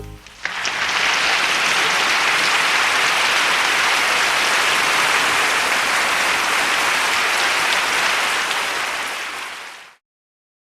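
Applause: a steady clapping that starts about half a second in and fades out near the end.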